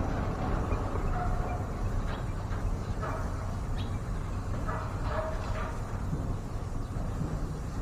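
A few short bird calls and chirps, a pair of low chirps about a second in and more around the middle, over a steady low rumble.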